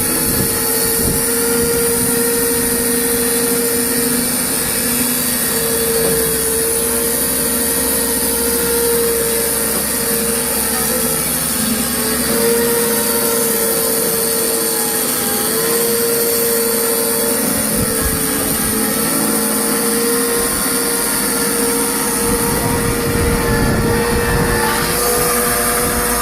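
Wood-Mizer band sawmill running, a loud steady whine with small dips in pitch now and then as the band saw works.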